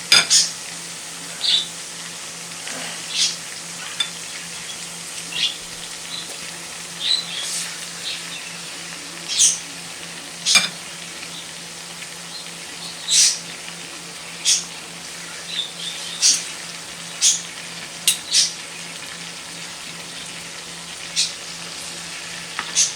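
Chicken pieces frying in hot coconut oil in a pot: a steady sizzle broken by irregular sharp crackles and spits of oil.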